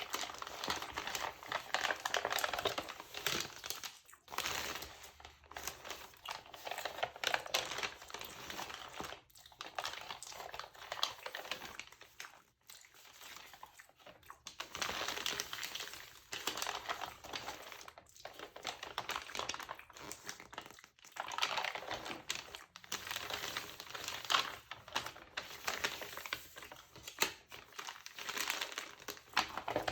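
Close-up crinkling and crackling of a textured glossy magazine's pages handled by hand, in stretches of a few seconds broken by short pauses.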